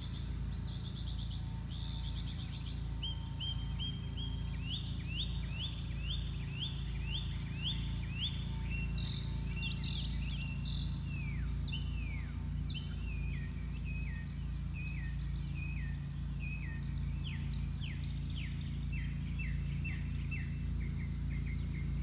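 A songbird singing a long series of short, repeated down-slurred notes, about two a second, over a steady low hum.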